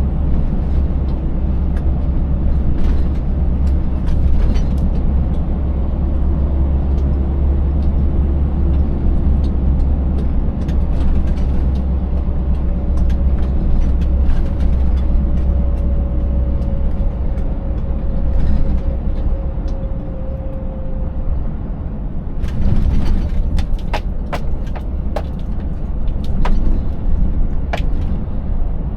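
Scania 590S truck's V8 diesel engine running under way, a steady low drone, with sharp knocks and rattles as the truck rides over a broken road surface, most of them bunched in the last several seconds.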